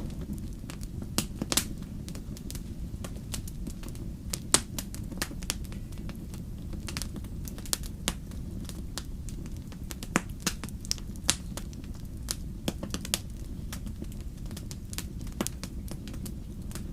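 Wood fire crackling, with many irregular sharp pops and snaps, a few louder than the rest, over a steady low rumble.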